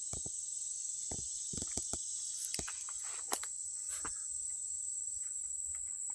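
Steady high-pitched buzzing of an insect chorus, with scattered light crackles and clicks, the loudest about three seconds in.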